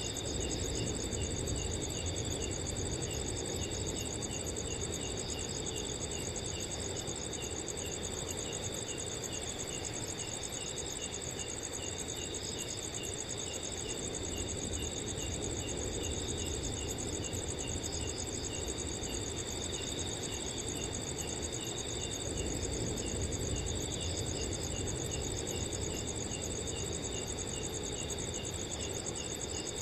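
Several crickets calling together: a fast, high trill runs continuously beside a steadier tone and a lower cricket chirping at an even, regular pace. Underneath is a soft, steady rush of wind through trees.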